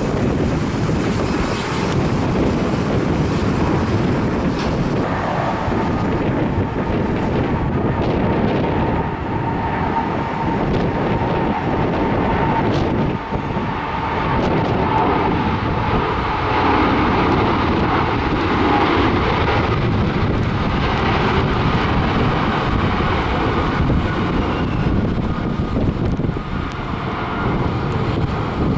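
Jet airliner's engines running as it passes, a steady rumble with a thin whine through the middle, while gusting wind buffets the microphone.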